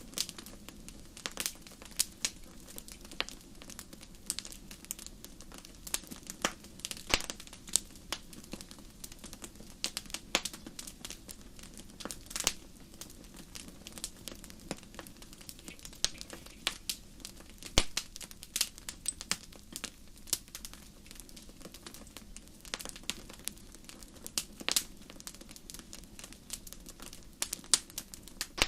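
Fire burning in a fireplace, crackling with many irregular sharp pops over a low steady rumble.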